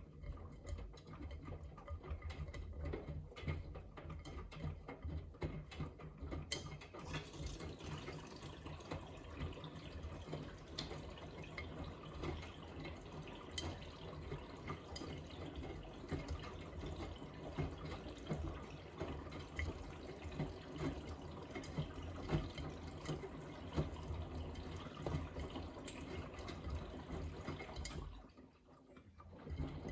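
Miele W3985 front-loading washing machine in its main wash: the drum turns, tumbling laundry through sloshing wash water with a low rumble. It stops briefly near the end and starts turning again.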